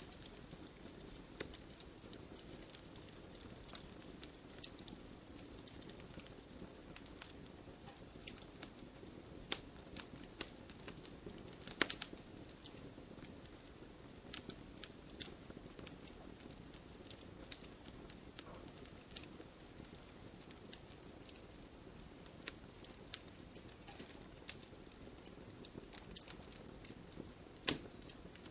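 Campfire burning: wood crackling with frequent irregular sharp pops and snaps over a soft steady hiss, a few louder pops about twelve seconds in and near the end.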